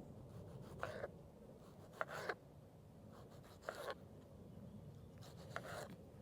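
Four short, faint scrapes of a utensil against a pan, scraping out the last of the cooked potatoes, spaced about one to two seconds apart.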